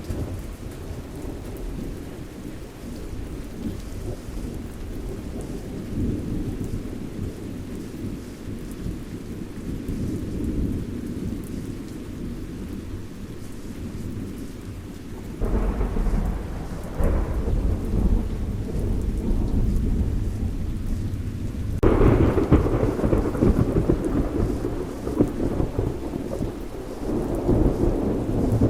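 Thunderstorm with steady rain under a low, continuous rumble of thunder. Two sudden thunderclaps come about halfway through, and a louder peal a few seconds later rolls on to the end.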